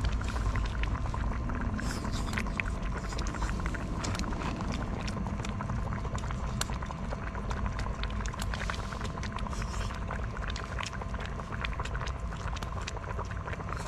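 Steady low wind rumble with many small irregular crackles and snaps from a wood fire burning.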